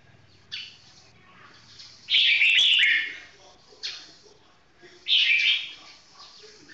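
Red-whiskered bulbul singing: two loud warbled phrases, about a second in from the middle and again near the end, with short single notes between them.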